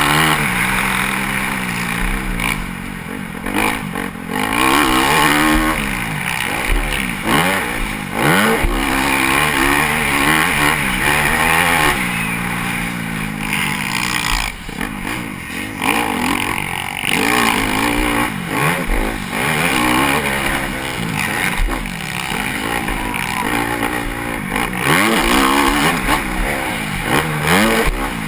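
Motocross bike engine revving hard up and down over and over as it races over a dirt track, heard from a camera mounted on the bike, with wind rush and the clatter of the ride.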